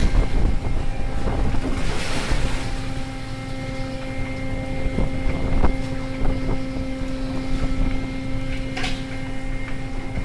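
Fishing boat's engine droning steadily, with wind buffeting the microphone. A rush of noise comes about two seconds in, and a few knocks sound here and there.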